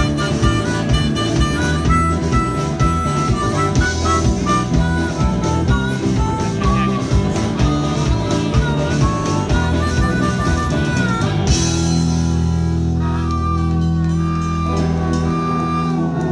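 Live country blues band playing an instrumental passage, a bending melody line over guitar and a steady beat. About eleven and a half seconds in, a crash and the band holds a final chord that rings on to close the song.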